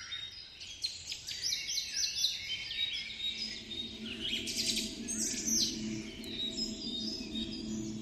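Rainforest animal chorus: many quick, high chirps sliding downward and overlapping. A low steady drone comes in about three seconds in.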